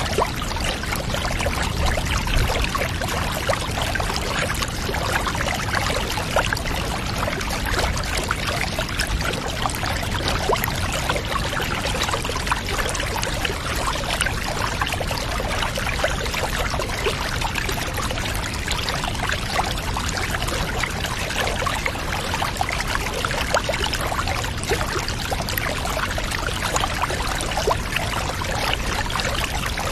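Water running steadily into a bath, a continuous pouring and trickling sound with fine crackles throughout, unchanging for the whole stretch.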